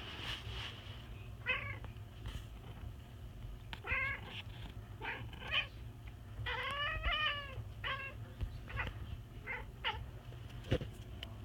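Domestic cat making a series of short, bleating goat-like calls, about nine of them, with a longer wavering one near the middle: the excited calling of a cat watching birds.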